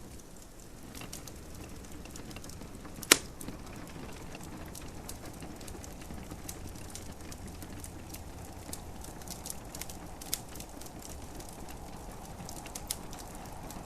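Wood fire crackling in a fireplace: many small sharp pops and snaps at irregular times, with one loud pop about three seconds in, over a soft steady hiss.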